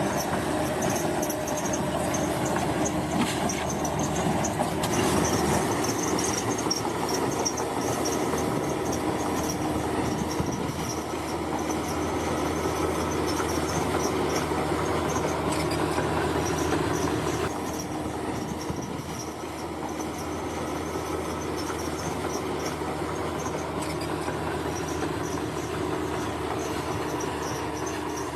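Bulldozer working: its diesel engine runs steadily under load while the steel crawler tracks clank and squeal. The sound eases a little about two-thirds of the way through.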